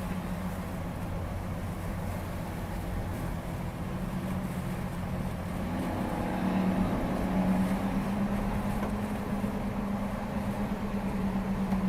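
Steady drone of a moving car heard from inside the cabin, engine and road noise, growing a little louder about halfway through.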